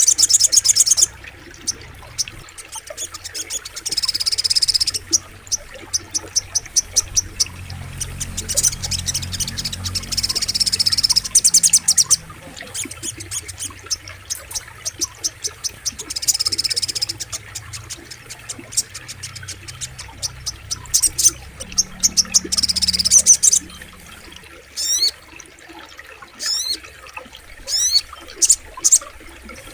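Sogok ontong (little spiderhunter) singing: bursts of rapid, high chipping notes about a second long, repeated every few seconds, with a few quick sweeping notes near the end. A low steady rush of flowing water lies underneath.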